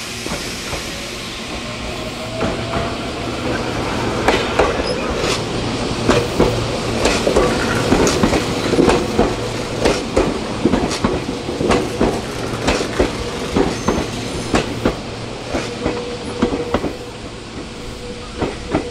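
Electric train running into a station, its wheels clacking over rail joints and points in a long irregular run, loudest through the middle. A thin steady whine comes in near the end.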